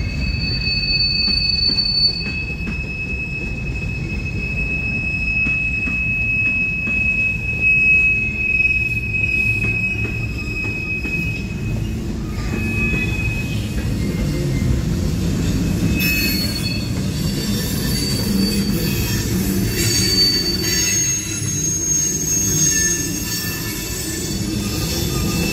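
Freight train cars rolling past, with a steady low rumble of steel wheels on the rails. A high-pitched squeal is held through the first half, and several higher squeals join in from about two-thirds of the way through.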